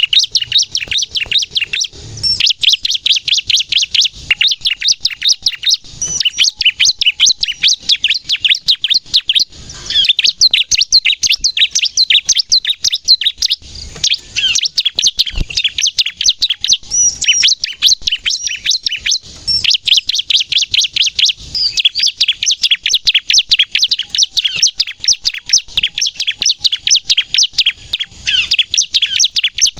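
Bar-winged prinia (ciblek) singing its rapid-fire 'nembak' song, a fast, nearly unbroken stream of sharp high chirps with short pauses every few seconds. This is the intense song bird keepers play to lure wild ciblek and to prompt captive ones to sing.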